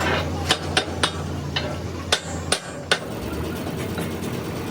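Hammer blows on metal: about seven sharp strikes at uneven spacing in the first three seconds, over a steady low hum.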